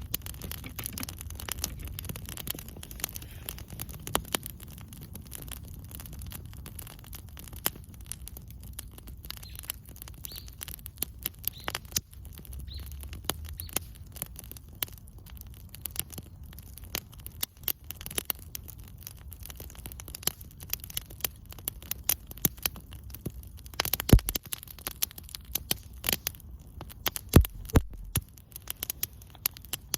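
Wood campfire burning, crackling with irregular sharp pops, two louder snaps about 24 and 27 seconds in, over a low rumble.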